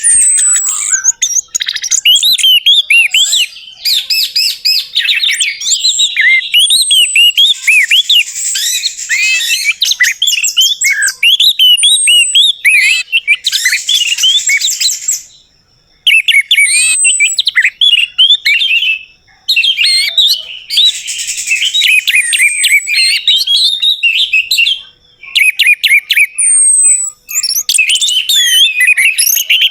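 Orange-headed thrush (anis merah) singing a loud, fast, varied song of chirps and whistles, with a few short pauses, the longest about halfway through.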